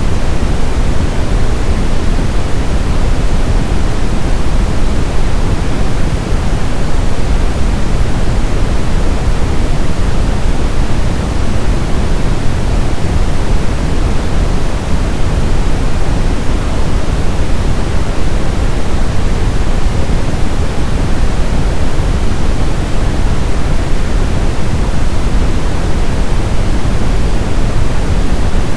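Synthetic brown noise: a steady, deep rushing hiss with most of its weight in the bass, unchanging throughout.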